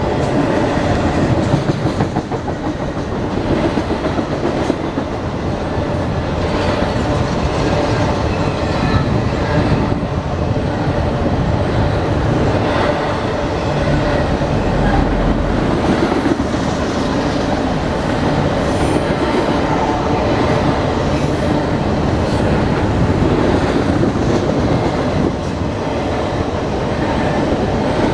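A train rolling past steadily: railcars rumbling, with wheels clacking over the rail joints.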